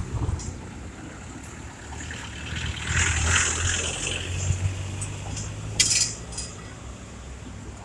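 Street traffic: a motor vehicle passing, loudest about three seconds in, with a short sharp clink or clatter about six seconds in.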